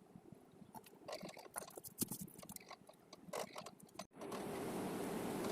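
Scattered light clicks and scrapes of small parts being handled and fitted. About four seconds in, an abrupt cut gives way to a steady noisy hum.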